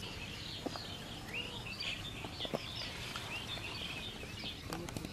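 Small birds chirping and twittering in a quick run of short rising and falling chirps, busiest through the middle, over a steady low background noise with a few faint clicks.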